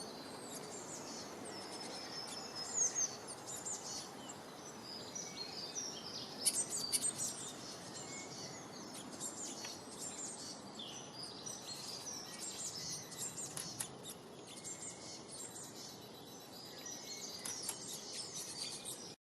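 Small birds chirping and twittering, many short high calls overlapping, over a steady background hiss of outdoor ambience.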